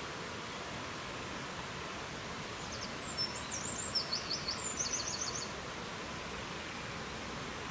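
Steady rushing of wind. In the middle, a small songbird sings one short, high phrase of quick chirps and trills lasting about three seconds.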